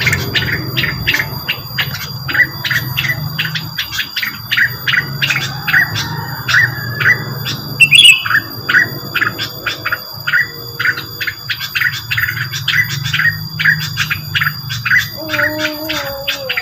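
Rengganis bird calling, a fast run of short repeated chirps about two to three a second, with one louder call about halfway, used as a lure call; a steady high whine and a low hum lie underneath.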